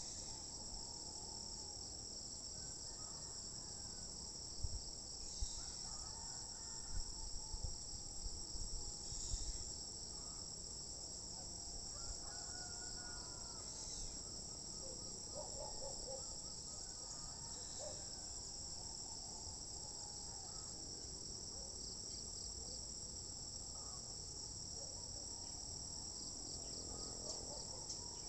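A steady, high-pitched chorus of insects droning without a break, with a few low thumps about five to ten seconds in.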